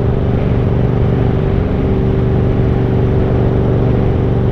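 Yamaha MT-07's 689 cc parallel-twin engine running steadily while the motorcycle cruises at about 70 km/h, its note holding an even pitch throughout.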